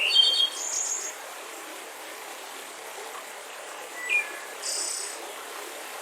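Birds chirping over the steady rush of a mountain river: a quick burst of high chirps in the first second, then two shorter calls about four to five seconds in.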